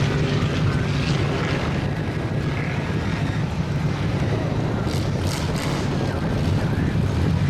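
Big mud truck engines running steadily in a mud pit, a constant low drone with a wash of noise over it.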